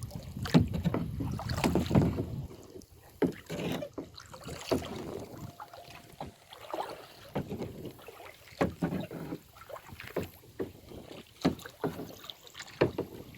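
Kayak paddle dipping and splashing in river water in a run of irregular strokes, with water sloshing between them.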